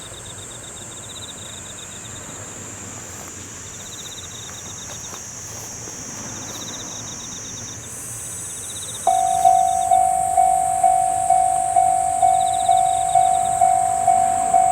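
Japanese railway level-crossing warning bell starts ringing about nine seconds in, a loud single-pitched ding struck a little over twice a second, signalling an approaching train. Under it, and alone before it, runs a steady high drone of summer insects with a pulsing chirp every second or so.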